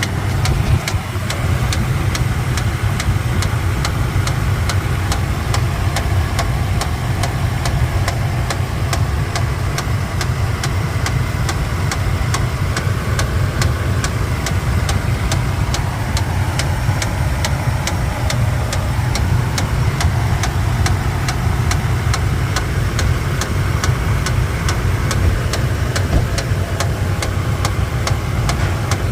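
2013 Toyota Tundra engine idling steadily with a regular sharp knock, about three a second, over its low running sound. The owner asks whether it is a knock from the lower engine.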